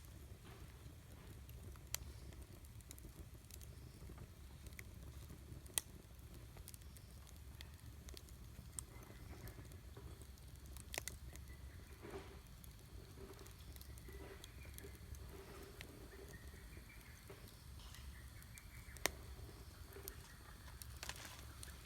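Wood campfire burning quietly: faint crackling with a few sharp pops, about four in all, and a faint wavering hiss in the middle. A low steady rumble runs underneath.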